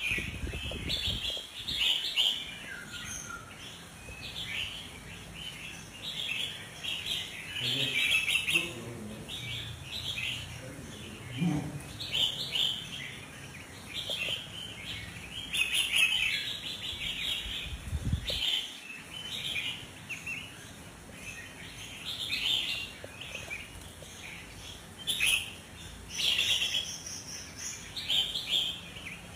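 Sooty-headed bulbul (kutilang) singing: short chirpy, warbled phrases repeated every second or two. A couple of brief low thumps come in the middle.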